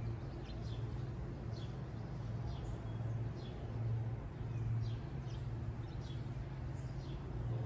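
Small birds chirping, with short high falling chirps repeating several times a second, over a steady low hum.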